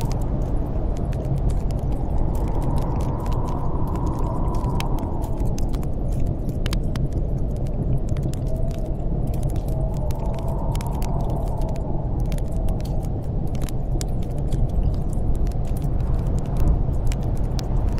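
Snowstorm wind blowing steadily, swelling into two howling gusts, with a wood fire crackling in a fireplace in many small sharp pops.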